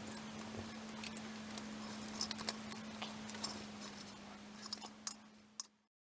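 Wood campfire crackling, with irregular sharp pops over a steady hiss and a faint low hum; the sound fades out shortly before the end.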